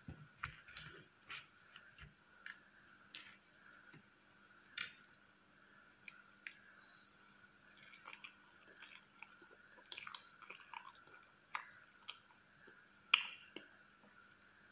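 Close-miked chewing of soft frosted cake, with wet mouth clicks and smacks scattered irregularly; the sharpest click comes about 13 seconds in.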